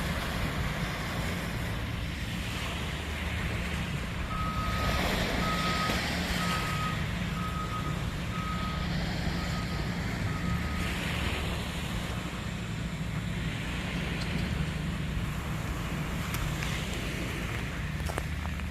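Heavy vehicle's engine running steadily, with its reversing alarm beeping about once a second for several seconds partway through.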